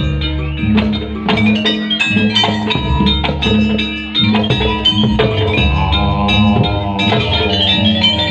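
Live jaranan dance music: drums and struck percussion keeping a steady beat under pitched instruments, with a wavering held note about six seconds in.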